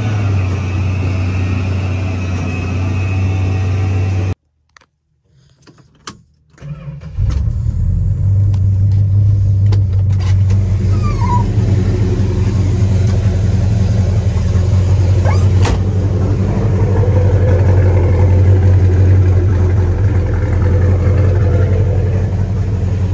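1969 Dodge Charger's engine running steadily at idle. It breaks off for about two seconds, four seconds in, then runs on steadily.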